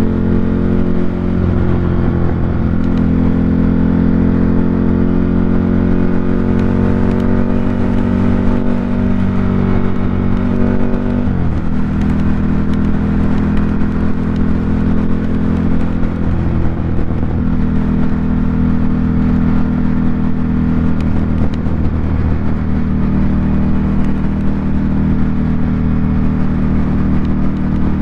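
2018 Ducati Monster 797's air-cooled 803 cc L-twin running through an SC Project aftermarket exhaust. The engine note holds steady for several seconds at a time, with small shifts in pitch now and then.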